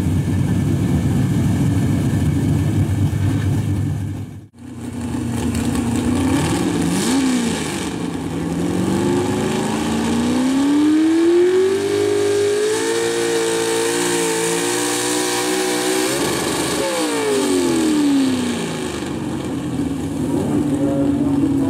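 Gas-engined 4x4 pulling truck running loud and low, then after a brief break its engine pitch climbs steadily for several seconds, holds high under load, and falls away to a lower steady run near the end.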